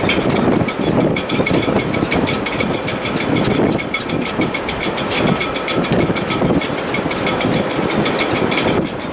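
Wind howling through a sailboat's shrouds and rigging in heavy weather: a loud, steady rush that swells and eases with the gusts, over a rapid, even fluttering rattle.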